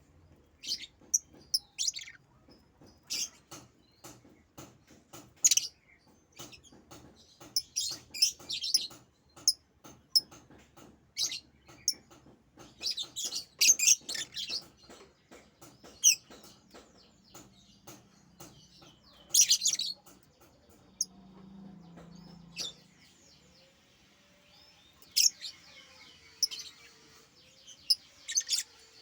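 A pet bird chirping in short, high calls at irregular intervals, some coming in quick clusters, with faint ticking clicks between them.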